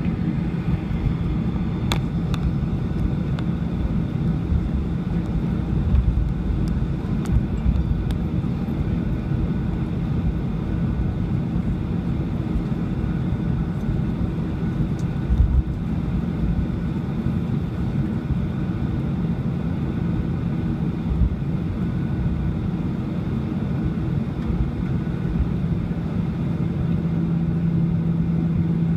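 Cabin noise of a Boeing 737-800 on the ground after landing: the steady low rumble of its CFM56 engines at idle, with a few short thumps. A steady hum grows louder near the end.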